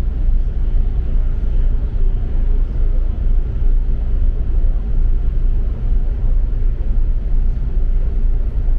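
Double-decker city bus under way, heard from inside: a steady low rumble of engine and road noise.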